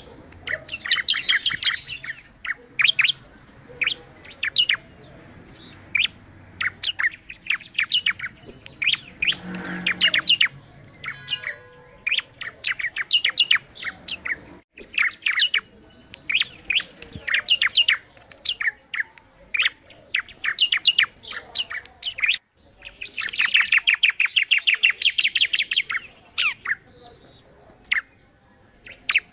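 Ciblek (prinia) singing vigorously, a long run of sharp, quick chirping notes broken by fast rattling trills, one near the start and a longer one near the end.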